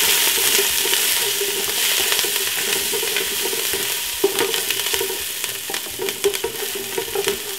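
Chopped garlic, thyme and spring onion sizzling in a little vegetable oil in a non-stick pot while a wooden spoon stirs them, with scattered knocks of the spoon against the pot from about halfway through.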